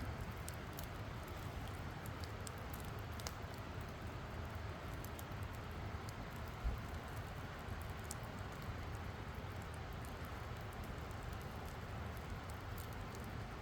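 Wood campfire crackling: scattered sharp pops and ticks over a steady low hiss, with a single dull low thump about halfway through.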